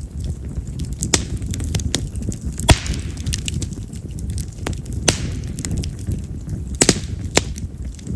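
Campfire of split yamazakura (wild mountain cherry) firewood burning, with a steady low rumble of flame and frequent sharp crackles and pops; a handful of louder pops stand out, the loudest about two and a half seconds in.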